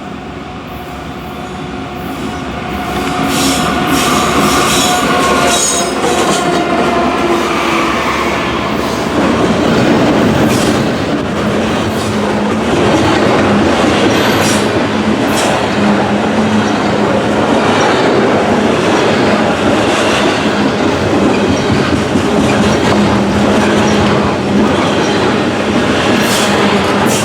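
Norfolk Southern diesel-hauled freight train going by: the locomotives' steady tones build up and pass in the first several seconds, then a long string of freight cars rolls past with a dense, steady rumble, clicking of wheels over rail joints and wheel squeal.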